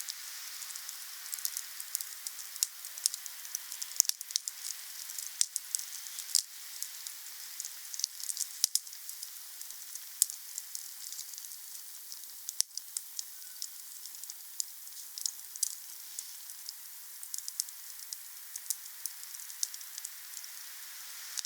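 Wood fire crackling: many irregular sharp pops and snaps over a steady hiss.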